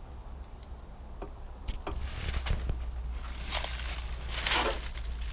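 Rustling and crunching footsteps through dry brush in several short bursts, over a steady low rumble on the microphone that strengthens about two seconds in.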